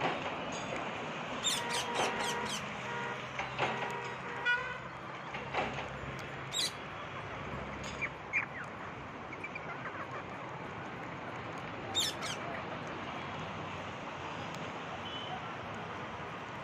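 Parrots giving short, sharp squawks, several in the first few seconds and a couple more about twelve seconds in, over a steady background noise.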